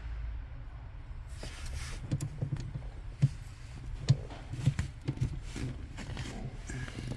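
Irregular knocks and clunks of things being handled, a few sharp ones standing out, over a low steady rumble.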